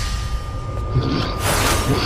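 Anime sword-fight sound effects: a steady low rumble under a faint held tone, with a sharp whoosh about one and a half seconds in.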